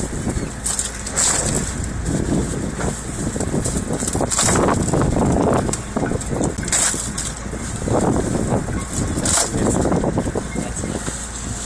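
Chum salmon being thrown by hand, landing with irregular wet slaps and thuds among other fish, over a steady low hum.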